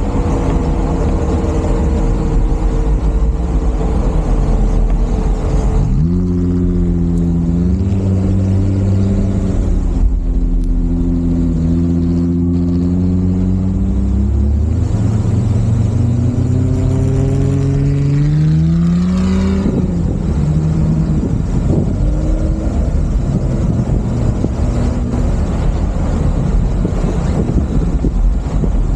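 A 4x4's engine working hard in sand over a constant noisy rumble. Its pitch jumps up suddenly about six seconds in, climbs steadily as it accelerates for several seconds, then drops abruptly about two-thirds of the way through.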